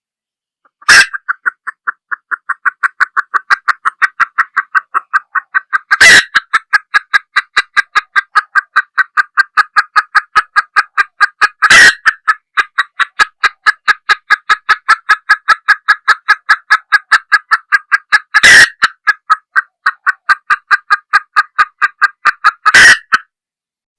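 Red junglefowl hen clucking rapidly and steadily, about four clucks a second, with a few much sharper, louder notes breaking in about every five to six seconds; the calls stop just before the end.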